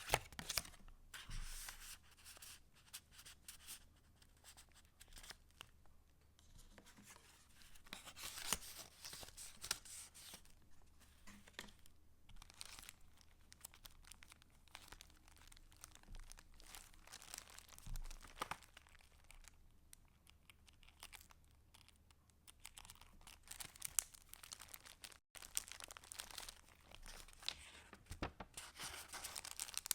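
Paper pages of a handmade junk journal being turned and handled, rustling and crinkling in irregular bursts, with a few sharper clicks.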